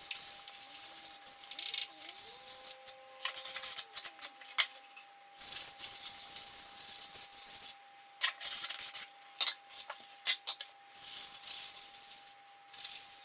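Sandpaper rubbing by hand over a toy chest's panel, in runs of strokes with short pauses between them.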